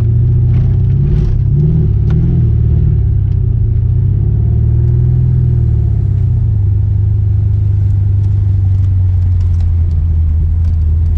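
Ford Mustang GT's 4.6-litre two-valve V8 running, heard from inside the car: a deep, steady rumble whose pitch rises and falls a few times in the first half, then holds level.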